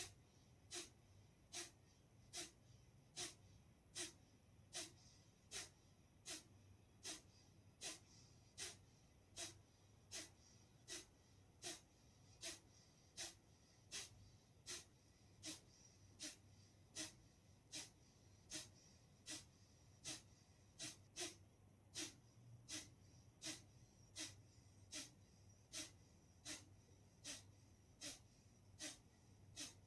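Kapalbhati breathing: a steady series of short, forceful exhalations through the nose, a little more than one a second and evenly spaced, each driven out by a sharp pull of the belly.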